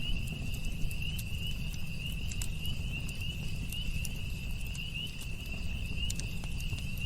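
Campfire burning with scattered sharp crackles and pops over a low steady rumble. Crickets trill continuously at a high pitch behind it.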